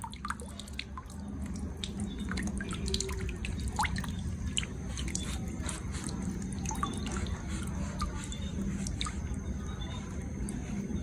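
Irregular light clicks and taps, several a second, over a low steady hum: small plastic toy parts and packaging being handled during an unboxing.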